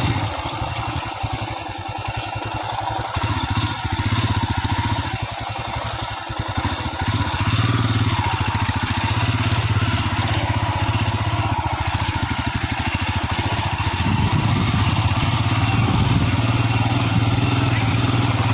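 Motorcycle engine running while riding, over a steady rush of wind and road noise; the engine gets louder about halfway through.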